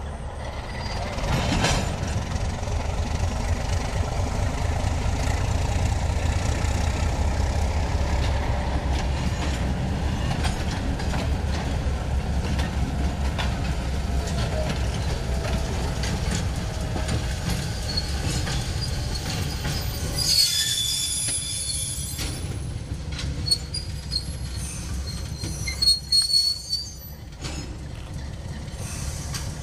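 MLW S-13u diesel end-cab switcher running as it moves a cut of boxcars past, its engine giving a steady low rumble under the rattle of the cars. High-pitched wheel squeal rises about two-thirds of the way through and again near the end.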